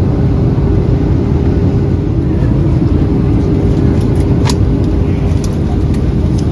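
Steady cabin noise inside a Boeing 737-800 airliner: the engines and airflow give an even low rumble with a steady hum. There is one short click about four and a half seconds in.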